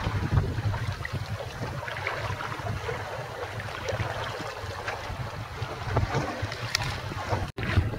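Strong gusty wind buffeting the microphone on a boat at sea, a low rumble that swells and eases, with the wash of waves underneath. The sound cuts out for an instant near the end.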